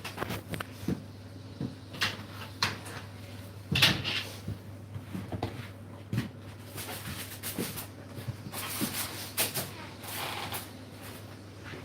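Assorted light knocks, clicks and brief rustles of household handling, like cupboard doors and objects being moved, over a steady low hum.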